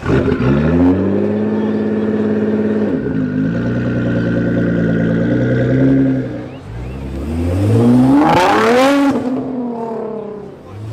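Nissan GT-R R35's twin-turbo V6 through a loud exhaust, accelerating hard: the pitch climbs, drops at a gear change about three seconds in, then climbs again. After a brief lift it revs sharply up to a loud peak and falls away, and it starts climbing again at the very end.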